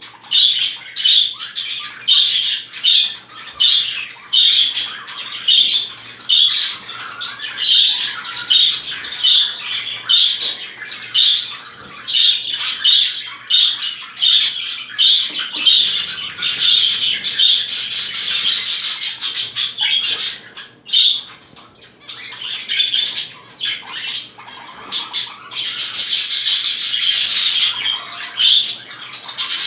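Budgerigars chattering in a rapid string of short squawks and chirps, several a second, with a quieter gap about two-thirds of the way through.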